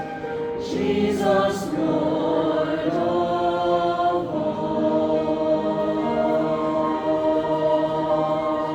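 Choir singing held chords that change every second or so, with a few short hissing consonants about a second in.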